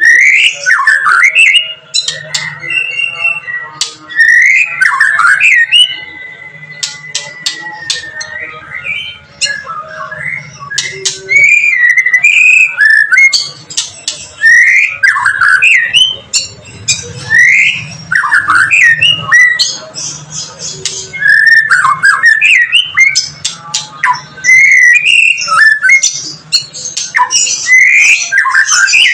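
White-rumped shama (murai batu) singing loudly and without a break: rapid whistled phrases that sweep up and down, mixed with sharp clicking and squawky notes, and one long held whistle about six seconds in. This is the agitated, fight-ready song of a bird that is 'manas' (heated).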